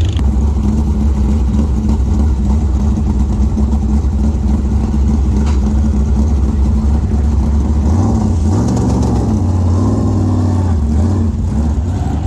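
Race car engine running steadily, loud and low-pitched; its pitch rises briefly about eight seconds in and settles back near eleven seconds.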